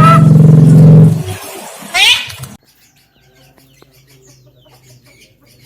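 Javan myna (jalak kebo) calling: a loud, drawn-out call for about the first second, a sharp rising whistle near two seconds, then only faint chirps.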